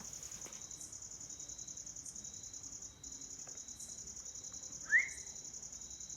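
Crickets trilling: a steady, high, fast-pulsed trill throughout, with a softer, lower chirp repeating about twice a second. A brief rising squeak cuts in about five seconds in.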